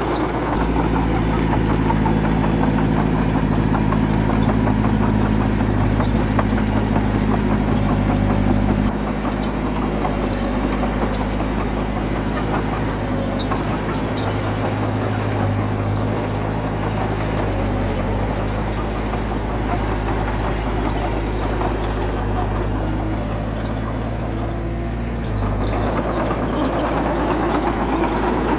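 A small bulldozer's diesel engine running steadily under work, easing off about a third of the way in and picking up again near the end.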